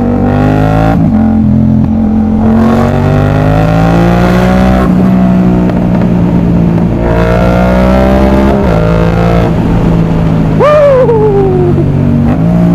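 Yamaha MT-07 parallel-twin engine with an aftermarket exhaust accelerating through the gears: the engine note rises three times, dropping at each shift. Near the end a short higher tone falls quickly in pitch.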